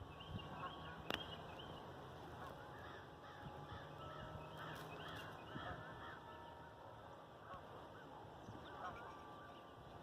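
Birds calling over and over in quick, short calls, most densely in the first half and again briefly near the end. There is one sharp click about a second in.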